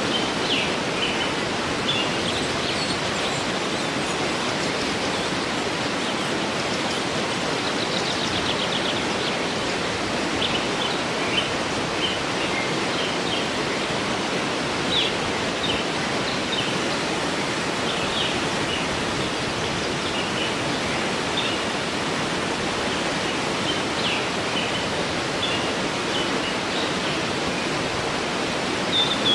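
Steady rush of a waterfall, with small birds chirping here and there over it and a quick trill about eight seconds in.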